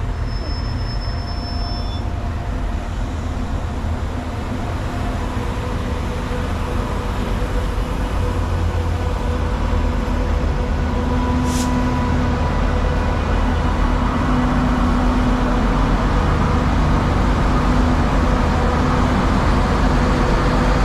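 Train running, a steady rumble with a faint hum over it that slowly grows louder.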